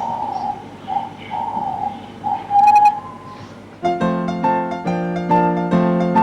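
A thin, wavering high tone in short phrases, like a whistle or flute line, with a sharp click partway through. About four seconds in, a piano begins playing repeated chords.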